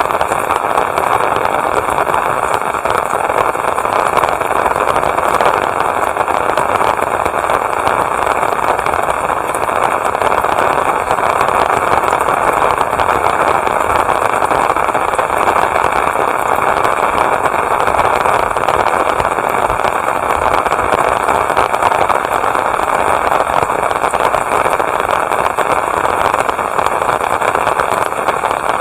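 Steady rain falling, an even dense hiss with many small drop impacts.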